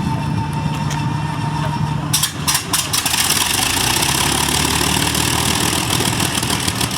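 Avro Lancaster's Rolls-Royce Merlin V12 engine being started. A steady hum, then about two seconds in a run of sharp coughs and bangs as the engine fires and catches, then a loud, even engine noise as it runs.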